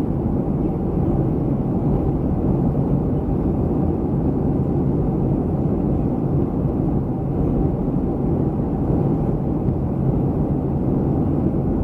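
Steady cabin noise of a Boeing 737-300 airliner in flight: a constant low rumble of the CFM56 turbofan engines and airflow, unchanging throughout.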